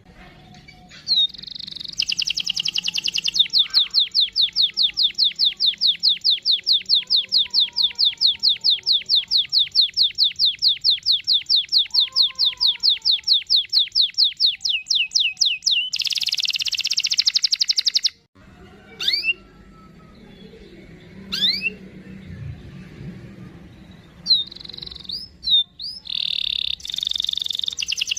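Domestic canary singing: a long rolling trill of rapid, evenly repeated high notes lasting over ten seconds, then a harsh buzzing phrase, a few single chirps, and another trill near the end.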